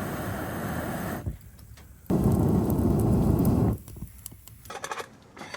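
Two long blows of air onto the fire to stoke it, heard as steady rushing noise that starts and stops sharply, the second blow louder. A few light clicks and knocks follow near the end.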